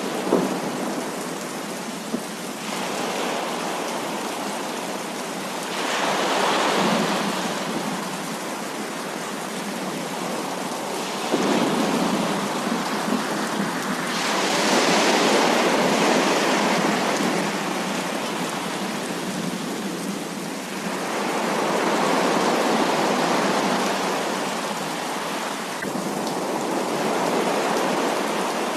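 Heavy rain falling steadily, surging louder several times in slow waves, with a sharp tap of a drop right at the start.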